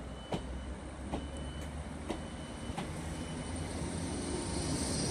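Train moving on the rails: a low rumble with sharp, irregular clicks of wheels over rail joints, growing slowly louder as it comes closer.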